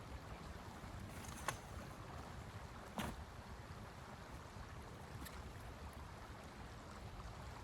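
Low steady rumble of storm wind, with a few sharp cracks: about a second and a half in, a louder one at three seconds, and a fainter one a little past five seconds.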